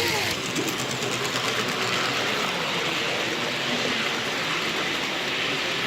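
Model train running along the track of a layout, the wheels giving light clicks over the rails over a steady background hum.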